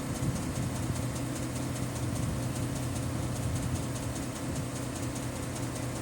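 Weichai diesel engine of a 2024 MAZ 5440 tractor idling, with a fast, even knocking over the steady engine hum. The owners think the knock comes from the engine-driven air compressor.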